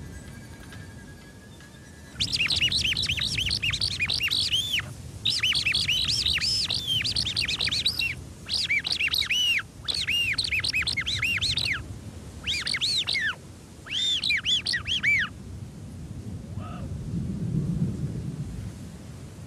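Rapid, high chirping bird calls in six bursts of a few seconds each, separated by short gaps.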